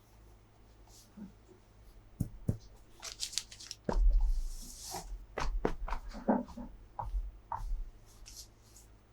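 Hands handling toy packaging and plastic parts: scattered clicks and knocks with short rustles, the loudest a longer rustle with thumps about four seconds in.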